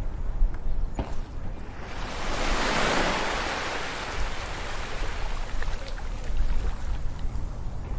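Ocean wave breaking on a beach: the surf hiss swells about two seconds in, peaks, then washes out and fades over the next few seconds, over a constant low, fluctuating rumble.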